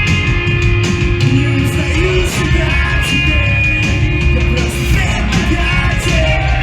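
Live punk/emo band playing loud: drums, guitars and vocals that are sung and shouted.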